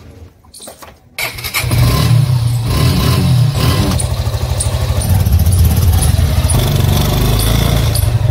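Suzuki Gixxer SF motorcycle's single-cylinder engine starting with a sudden catch about a second in, after a few faint clicks. It takes a few quick revs, then runs steadily.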